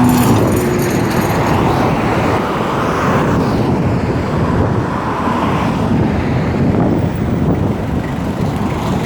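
Road traffic close by: cars passing on a busy road, a steady rush of tyre and engine noise that swells and eases as vehicles go by.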